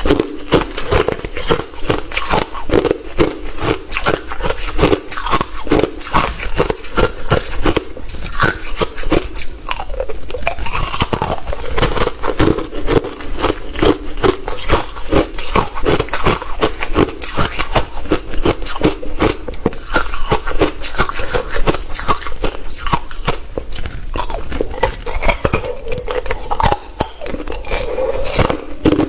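A person biting and chewing hard refrozen crushed ice close to the microphone: dense, rapid crunches one after another, without a break.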